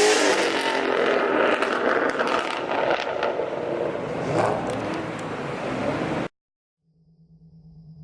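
Car engine revving hard over a loud rushing noise of spinning tyres, as in a burnout. The engine pitch rises and falls. The sound cuts off abruptly about six seconds in.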